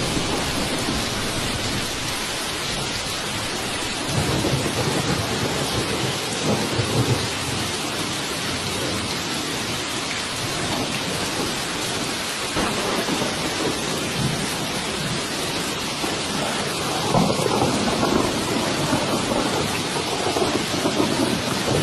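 Steady heavy rain, with rolls of low thunder rumbling underneath that swell stronger near the end.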